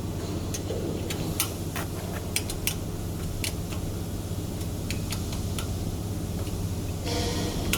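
Steady low hum of workshop machinery with scattered sharp metallic clicks and clinks of tools and parts being handled during machine assembly, and a short scraping rustle near the end.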